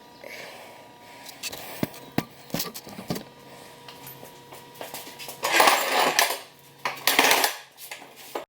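Metal tools and parts clinking and knocking during repair of a lawn tractor's mower-deck pulley: a few sharp clicks, then two louder, longer harsh noises about a second and a half apart near the end.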